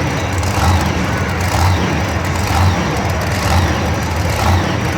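Monster truck's big-block V8 engine running loudly in a stadium, its rumble swelling about once a second as the throttle is worked.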